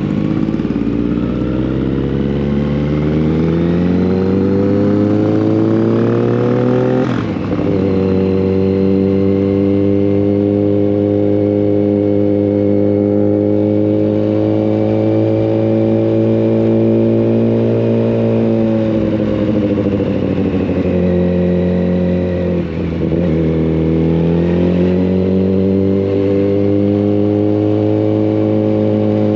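Yamaha FZ1 Fazer's inline-four engine, heard on the move through a Mivv GP exhaust with the dB killer removed. The engine note rises for about seven seconds under acceleration, then holds steady, dips a little past twenty seconds and climbs back up.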